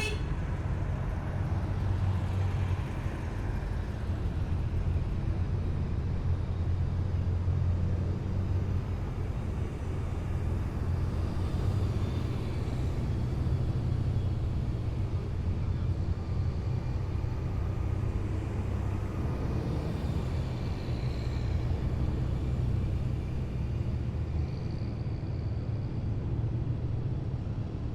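Heavy military vehicles' diesel engines running as a column drives past, a steady low drone with no break.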